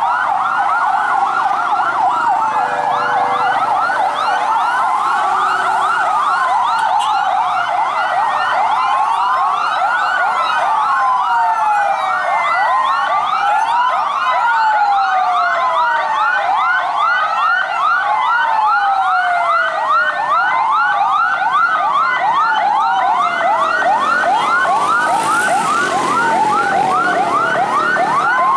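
Several fire truck sirens sounding at once and out of step. Fast, repeating yelp sweeps overlap with slower wails that rise and fall.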